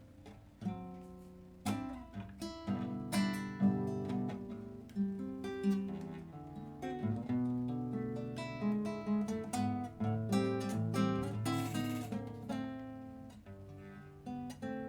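Acoustic guitar playing the instrumental introduction of a zamba, plucked notes mixed with strummed chords.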